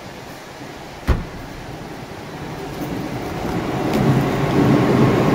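An electric train passing close by, its noise building over a few seconds and then running loud and steady with a low hum. A single sharp knock about a second in.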